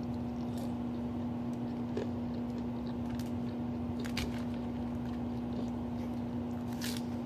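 Quiet chewing and small mouth and utensil clicks of someone eating salad, with a few sharper clicks about four and seven seconds in, over a steady electrical hum.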